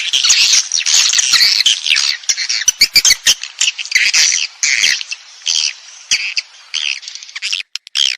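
Recorded swiftlet lure call, the kind played to attract swiftlets into a swiftlet house: a dense, rapid stream of chirps and twitters from many swiftlets, thinning into separate chirps near the end.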